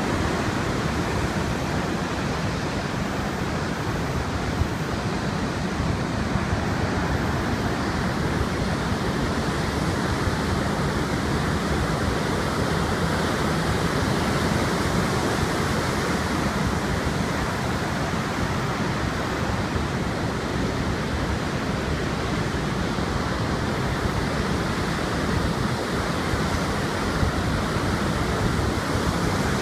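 Heavy surf and strong wind in a typhoon, a loud steady wash of noise without letup.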